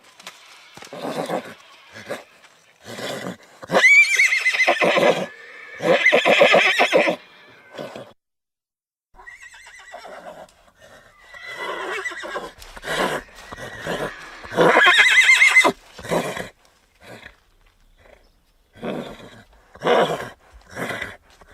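Horse neighing and whinnying several times, loud, high and shaky, with snorting breaths between calls and a run of short, separate blows near the end.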